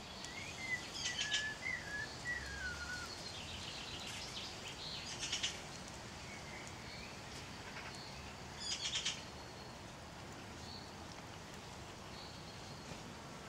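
Songbirds singing outdoors over a steady background hiss: a wavering whistled phrase in the first few seconds, quick high trills about one, five and nine seconds in, and short thin high notes in between.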